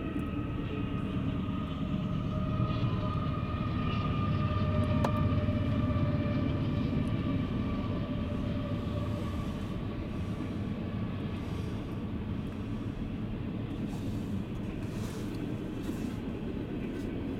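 Freight train passing behind a diesel locomotive: a steady rumble of engine and wheels on rail with a held whine over it, loudest about five seconds in.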